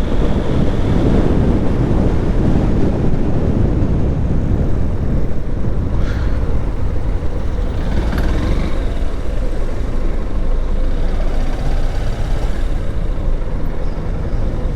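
Motorcycle running at highway speed, heard as a steady, loud rush of wind and road noise on a rider-worn action camera's microphone.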